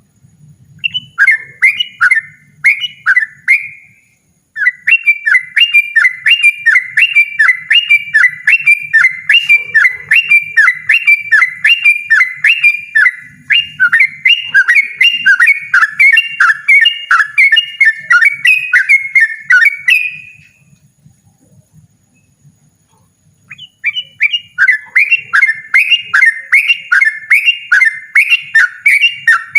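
Yellow-vented bulbul (trucukan) singing loud and insistent in a fast run of repeated falling notes, about three a second. The run breaks off briefly a few seconds in, and again for about three seconds past the middle, before starting up again.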